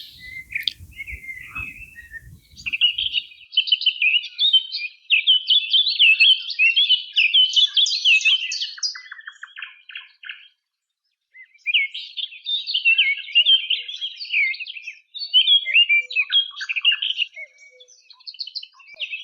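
Songbirds singing long runs of quick, varied warbling, with a short break about ten seconds in.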